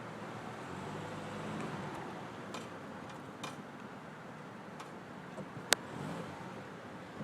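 Brake clicking from the driver's side of a 2005 Honda Civic: a handful of sharp, irregularly spaced clicks over a steady low hum, the loudest about two-thirds of the way in. It is a fault that new pads and a resurfaced rotor have not cured.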